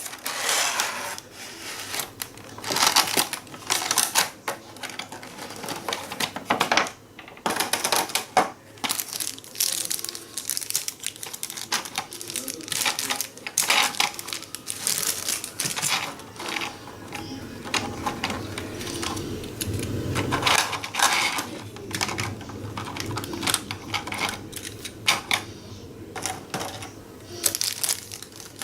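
Irregular clicks, taps and rustling of a plastic model-train package being handled and opened.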